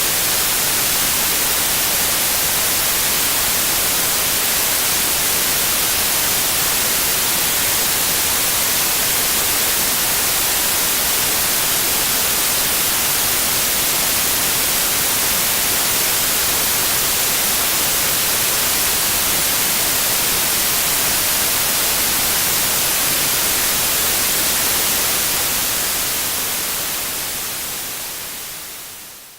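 Steady synthetic white noise, an even hiss strongest in the treble, fading out smoothly over the last few seconds.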